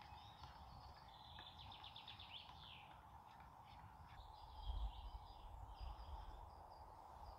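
Faint birdsong: small birds calling, with a rapid trill of repeated notes about a second in that ends in a falling note, then scattered short chirps. There is a brief low rumble near the middle.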